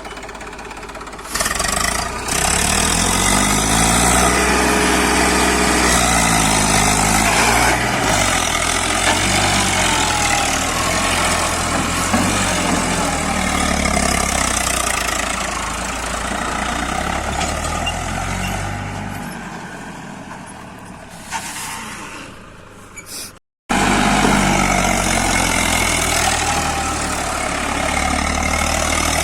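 Tractor engine running hard and being revved up and down during a stunt, easing off near the end before cutting out for an instant and coming back.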